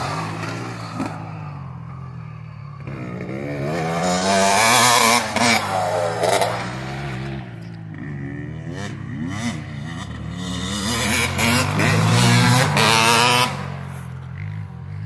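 250 cc motocross bike engine revving up and down as it rides, its pitch rising and falling with the throttle. It swells loudest about five seconds in and again about twelve seconds in, then drops off near the end.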